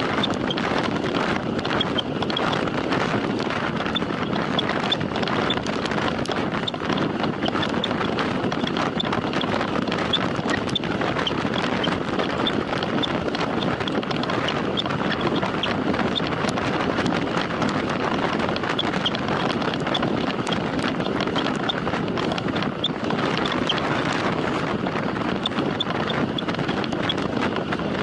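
Wind rushing over the microphone of a camera on a moving road bicycle during a time trial effort, a steady noise that does not let up, with faint scattered high ticks.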